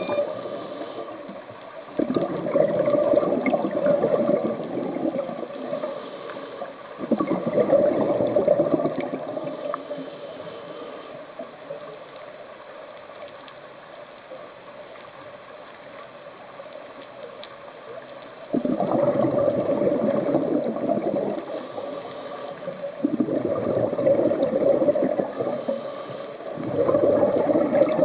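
Scuba diver's exhaled bubbles rushing from the regulator underwater in several separate breaths, a few seconds apart, with a longer pause in the middle, over a faint steady hum.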